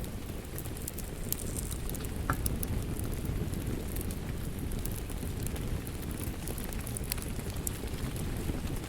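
Wood fire in a fireplace crackling: irregular sharp pops and snaps over a steady low rumble of the flames, with one stronger pop a little over two seconds in.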